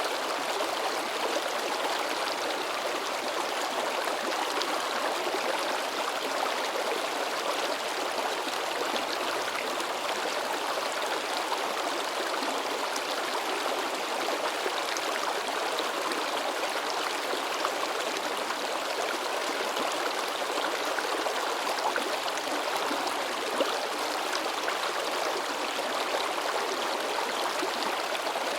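A mountain river babbling and splashing over rocks, a steady rush of water with small splashes and gurgles throughout.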